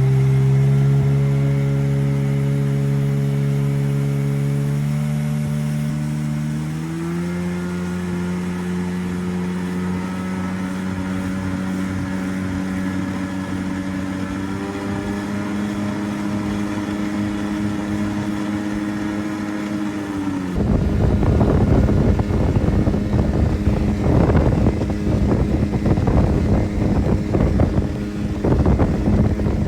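1996 Tigershark jet ski's two-stroke engine idling steadily after being brought back to running. Its pitch steps up twice as it settles. About two-thirds of the way through, the sound changes abruptly to a rough, gusty noise with the engine tone still running underneath.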